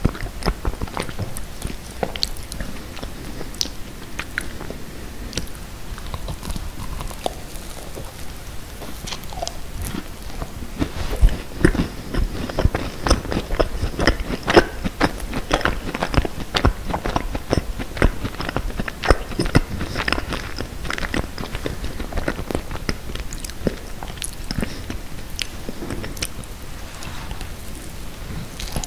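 Close-miked biting and chewing of a macaron: a steady run of small crunchy clicks and mouth sounds, busiest in the middle, with a fresh bite near the end.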